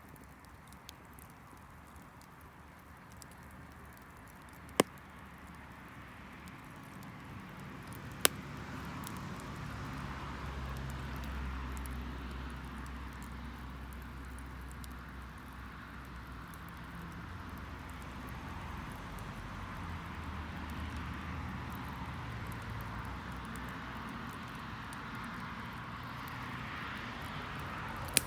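Garden wood fire crackling with faint ticks and three sharp pops. Under it, a distant engine rumble swells from about a third of the way in and slowly rises and falls.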